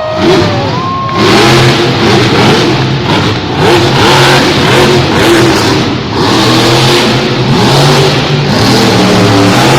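Monster truck's supercharged V8 revving hard and loud, its pitch climbing and dropping again and again.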